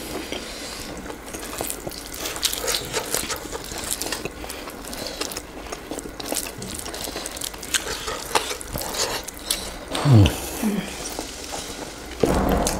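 Close-miked eating sounds: irregular chewing, crunching and smacking of chicken wings eaten by hand. A brief falling pitched sound comes about ten seconds in.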